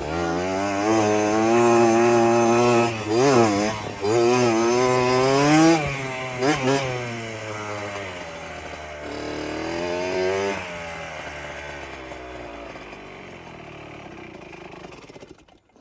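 Small two-stroke dirt bike engine revving up and down repeatedly as it is ridden, then growing fainter after about ten seconds.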